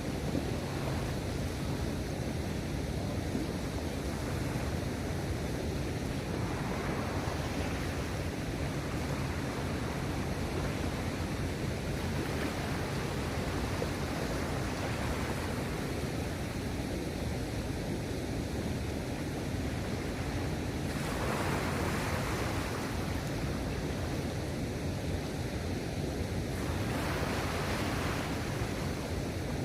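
Sea waves washing against the shore, with wind rumbling on the microphone. The wash swells louder a few times, most clearly about two-thirds of the way in and again near the end.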